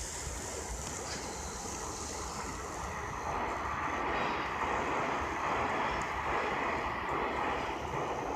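Airplane passing high overhead: a distant, steady rushing drone that swells about three seconds in.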